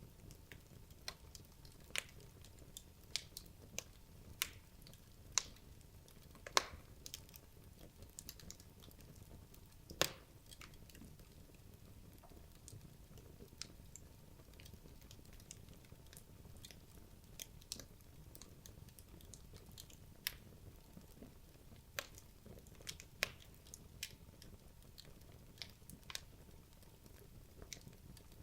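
Wood logs burning in a fireplace: irregular sharp crackles and pops over a low, steady hiss of flame, with the loudest pops in the first ten seconds.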